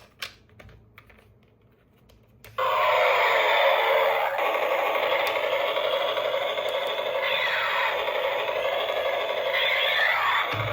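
A few light clicks and taps, then, about two and a half seconds in, a loud electronic sound starts abruptly and runs steadily, with a few sweeping changes in pitch.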